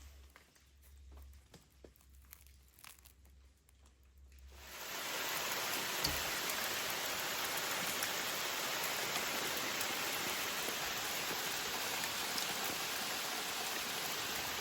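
Steady, even rain that fades in about five seconds in and then holds at a constant level. Before it there are only faint small ticks.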